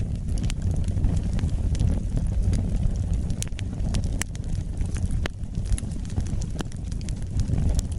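Wood fire burning in a fireplace, with a steady low rumble of flames and frequent sharp crackles and pops from the burning logs.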